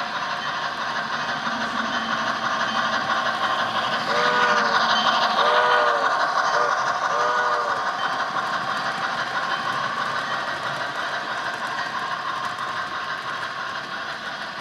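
Sound-equipped HO scale model steam locomotive passing, its steam whistle blown in a long, long, short, long pattern, the grade-crossing signal, over a steady running hiss. The sound swells as it passes and then fades away.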